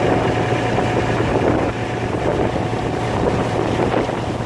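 Fishing boat's engine running steadily with a constant low hum, mixed with wind buffeting the microphone.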